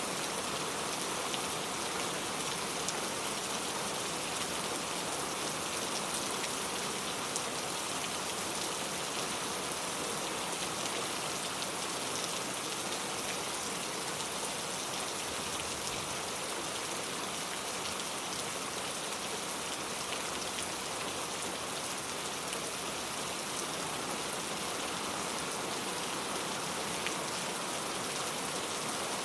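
Steady rain falling, with many individual drops pattering on surfaces.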